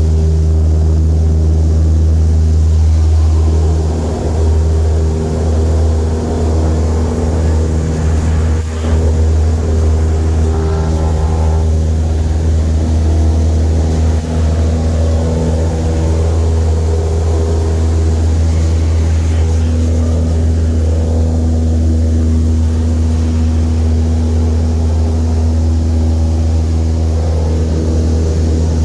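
Small single-engine airplane's piston engine and propeller droning steadily at a constant pitch.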